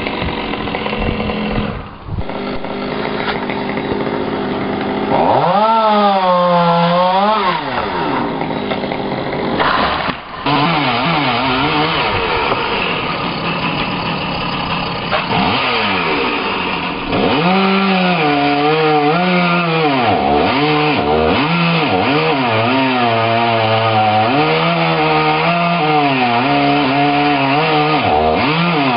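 Chainsaw cutting wood, its engine pitch repeatedly dipping under load and rising again. It is busiest with these dips in the second half.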